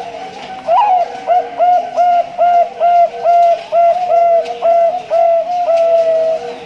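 Male Bangkok zebra dove (perkutut) singing its cooing song: a quick, even run of short coo notes, about three a second, ending on one longer held coo. Fainter cooing from other doves runs underneath.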